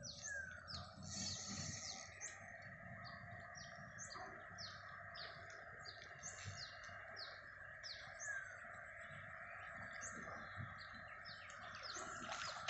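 Birds chirping: many short, quick calls sweeping downward, repeating over and over, faint, over a steady high drone.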